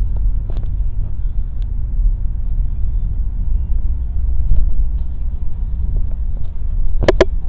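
Steady low rumble of an aircraft's engines. Two sharp clicks come near the end.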